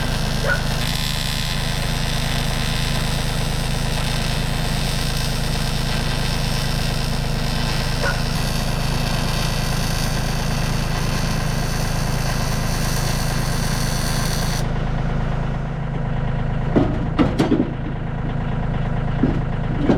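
An engine idling steadily, with a broad hiss over it that cuts off suddenly about three-quarters of the way through. A few short knocks follow near the end.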